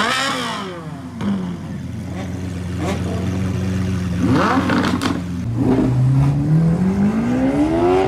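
Exotic sports car engine idling with several sharp throttle blips, then rising steadily in pitch from about halfway through as the car accelerates away.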